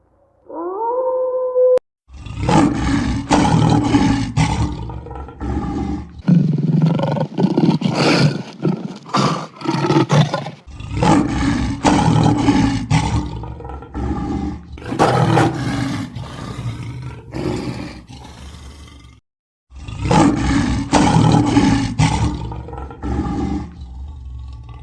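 Big cat roaring and snarling, loud rasping calls in a long series with short breaks, after a brief rising call near the start.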